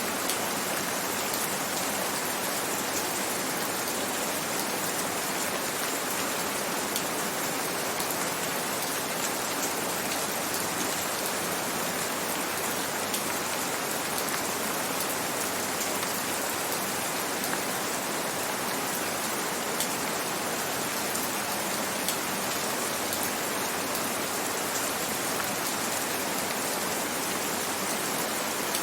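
Gentle rain falling steadily: an even hiss with scattered individual drop ticks.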